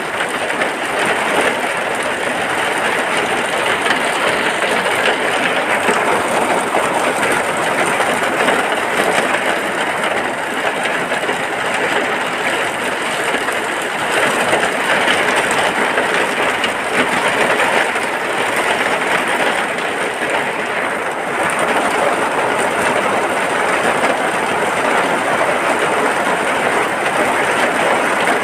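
Steady rain falling, a dense, even hiss with no pauses.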